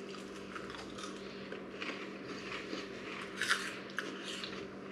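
Small puffed rice crackers (kakimochi) being bitten and chewed: a run of short, dry crunches and crackles, the sharpest a little past halfway.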